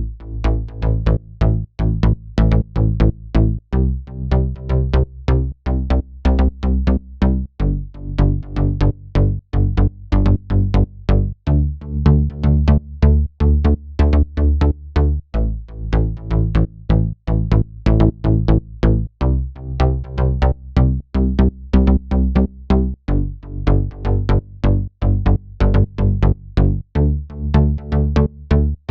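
Melodic house music being produced: a steady electronic kick pattern over a deep sustained bass and synth chords, playing as a repeating loop.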